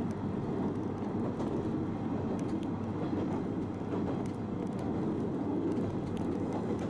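Electric train running, heard from inside the carriage: a steady low rumble of wheels and running gear with a few faint clicks.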